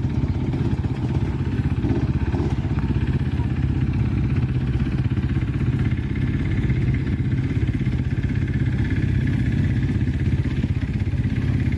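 Off-road dirt bike engines running steadily at idle while being warmed up.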